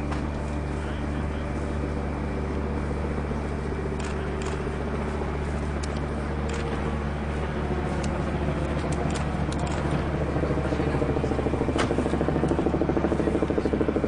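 An engine idling steadily with a low hum, growing louder and pulsing quickly over the last few seconds, with scattered faint clicks.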